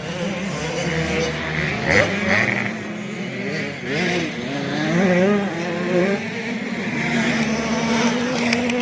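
Several 85cc two-stroke motocross bikes racing, their engines revving up and down, with louder swells as bikes come closer.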